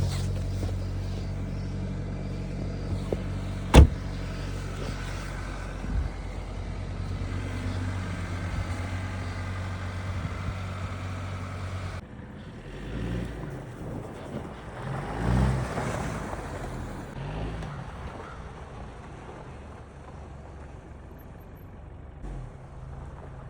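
Car engine running steadily, with one sharp knock about four seconds in. About halfway through the sound changes abruptly to a quieter, uneven running with a few rises and falls in pitch.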